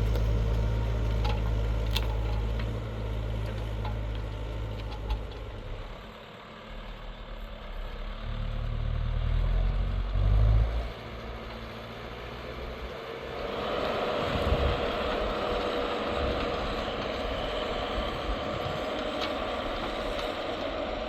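New Holland TL100 tractor's diesel engine running while plowing: a heavy low rumble that eases off about six seconds in and swells again a few seconds later. From about halfway through, a higher, busier running sound takes over.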